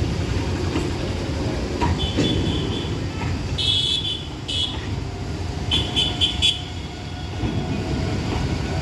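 Train rolling past with a steady heavy rumble, with several short high-pitched squeaks between about two and six and a half seconds in.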